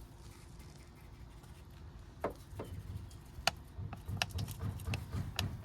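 A low hum, then from about two seconds in a run of irregular sharp clicks and taps over a low rumble.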